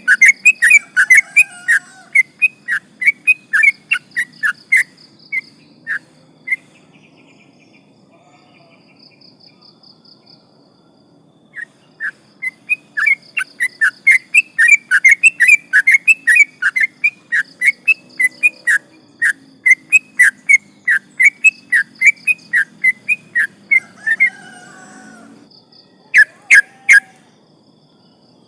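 Yellow-vented bulbul (trucukan) singing a long, rapid run of sharp chattering notes, about four to five a second, which breaks off for several seconds in the middle and then resumes. A faint high buzzing trill repeats in the background, and a few loud sharp notes come near the end.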